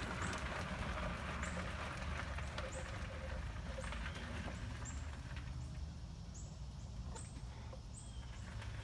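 Outdoor ambience: short, high bird chirps repeating about once a second, more often in the second half, over a steady low rumble.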